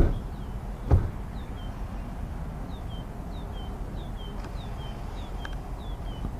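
A small bird calling a short, falling two-part chirp over and over, about twice a second, above a steady low rumble. Two dull thumps come at the very start and about a second in.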